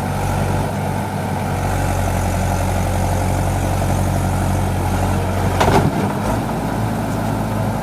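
Tractor's diesel engine running steadily, with a brief louder noise near the end.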